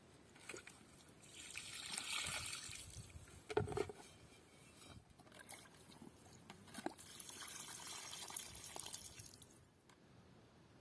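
Liquid being poured, in two spells of two to three seconds each, with a few knocks between them.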